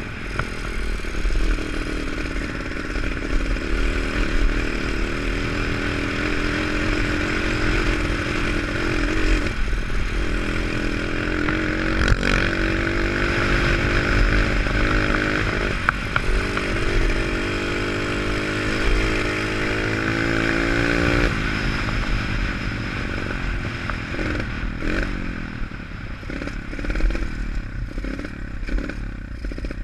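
Pit bike engine being ridden, its pitch climbing again and again as the throttle is opened, then dropping back about two-thirds of the way through, with rattles and knocks from the bike.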